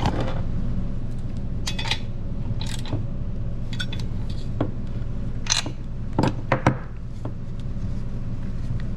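Scattered light metal clinks and knocks of a chainsaw and small tools being handled on a workbench, with a few louder knocks a little past the middle, over a steady low hum.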